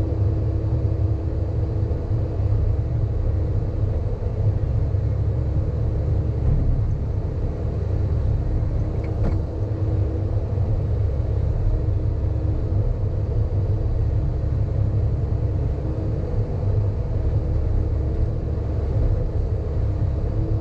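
Sany excavator's diesel engine running steadily under load, a deep, even drone with a steady hum above it.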